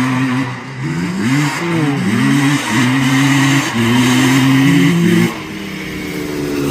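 Two-stroke engine revving up and down, with its pitch held steady for about a second at a time between the revs, then dropping away sharply about five seconds in.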